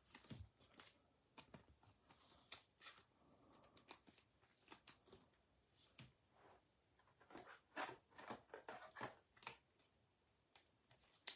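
Faint, scattered taps and rustles of baseball trading cards being handled and sorted on a table.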